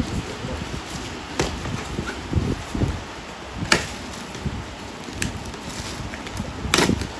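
A cardboard parcel being handled and opened: a few sharp snaps and knocks, about four over several seconds, over low rustling and bumping.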